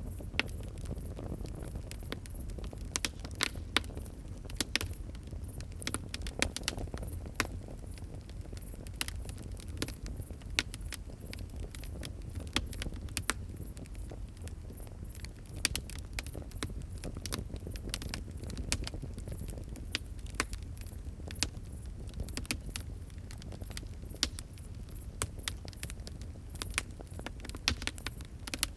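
Wood fire crackling: frequent sharp, irregular pops and snaps over a low steady rumble of the flames.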